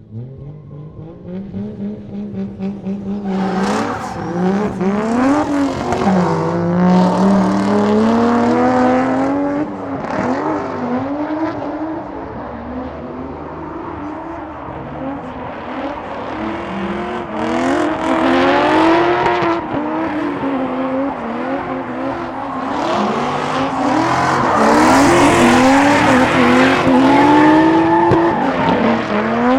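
Drift car engines revving hard and falling back again and again through a drift run, with tyres squealing as the cars slide. The sound builds a few seconds in and is loudest near the end.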